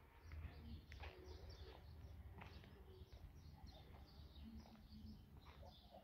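Faint birdsong: many short, high chirps from small birds throughout, over a low rumble, with a few soft knocks.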